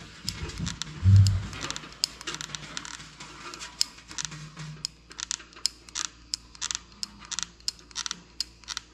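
Rapid, irregular light clicks and taps from a caulking gun and hand tools while silicone sealant is run along the edges of a cast iron fireplace, with one dull thump about a second in.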